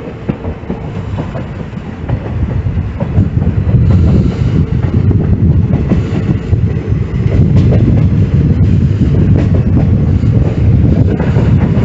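Train running on the track, a steady rumble with its wheels clicking over the rail joints; the rumble grows louder about three to four seconds in.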